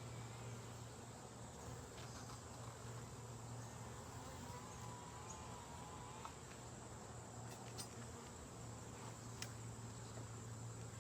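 Honeybees buzzing in a steady drone around an open hive, with a few faint sharp clicks.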